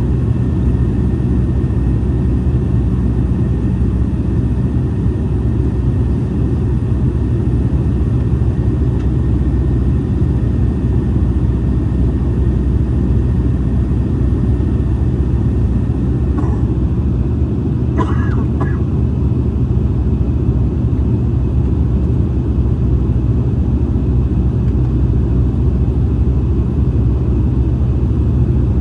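Airliner cabin noise during the approach: a steady, loud rumble of engines and airflow, with a faint steady high whine. A few brief faint sounds come through about two-thirds of the way in.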